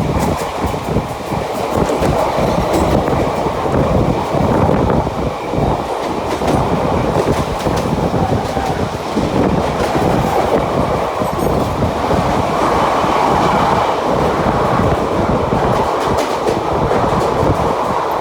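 Mumbai suburban local electric train running, heard from on board: a steady rumble of wheels on the rails with scattered clicks from the track.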